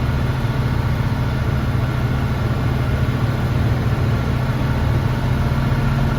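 Diesel truck engine running steadily with the accelerator held down, driving the air compressor to build pressure in the brake air tanks toward the governor cut-out.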